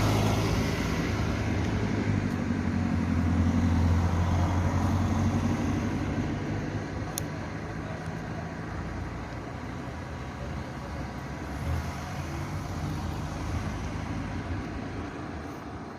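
A vehicle engine running with a low, steady hum, loudest for the first five seconds or so and then fading, over continuous road traffic noise.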